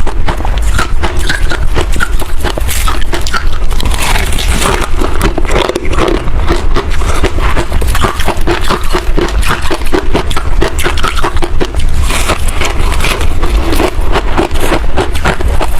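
Close-miked mouth crunching and chewing of soft white freezer frost: a loud, continuous run of crisp, crackly crunches.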